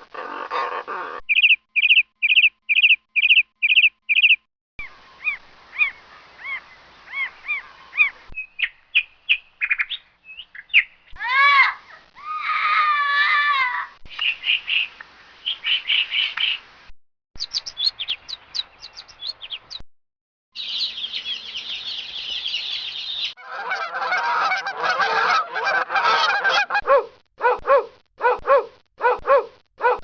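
A series of different recorded bird and animal calls, switching every few seconds, with goose honking among them: runs of short repeated chirps, gliding cries and honks.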